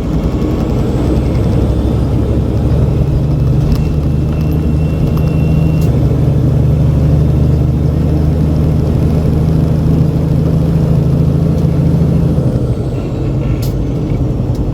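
Diesel engine of a loaded semi truck pulling steadily, heard from inside the cab as a loud low drone. Its pitch steps up a little twice in the first few seconds and falls back near the end.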